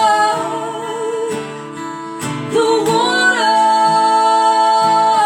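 Live acoustic song: a singing voice holds long notes over strummed acoustic guitar, sliding up into a new held note about three seconds in.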